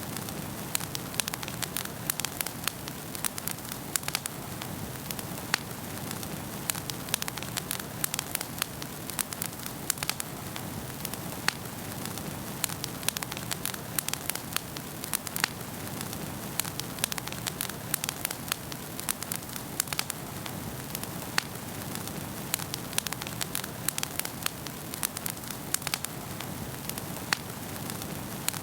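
Wood fire burning in a fireplace: steady low rushing of the flames with frequent sharp, irregular crackles and pops of burning logs.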